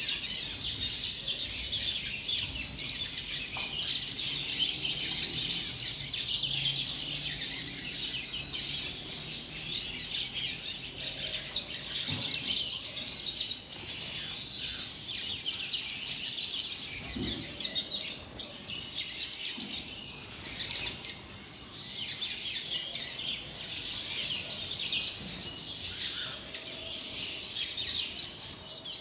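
Young double-collared seedeater (coleiro, papa-capim) singing a long run of rapid high chirps and twitters with no break: a juvenile's song still being learned.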